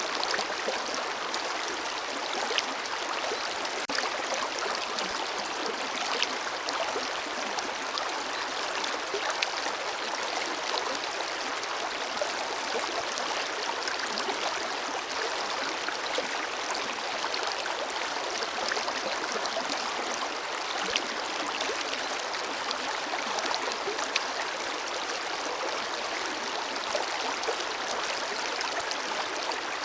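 Forest river flowing steadily, a constant rush of moving water with small splashes and gurgles scattered through it.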